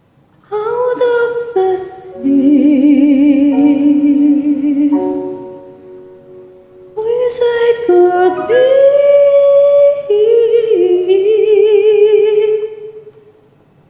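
A woman singing karaoke: long held notes with a wide vibrato in two phrases, with a short break about halfway through.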